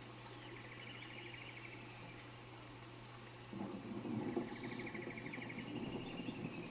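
A bird sings a pulsed trill of about a second, twice, with short high chirps, over a steady hiss of rain. About halfway through, a low rumble of distant thunder sets in and swells.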